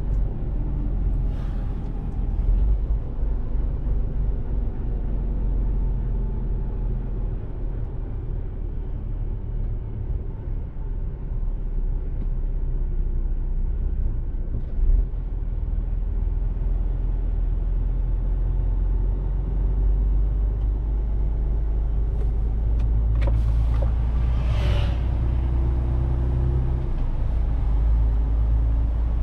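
Mercedes-Benz Actros truck under way, heard from the cab: a steady low engine and road rumble whose pitch drifts as the engine speed changes. Two brief hisses cut through, one about a second in and a louder one near the end.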